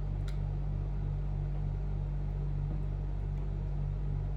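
Steady low hum, with a faint click about a quarter second in and a few very faint ticks later, as small laptop screws and a screwdriver are handled.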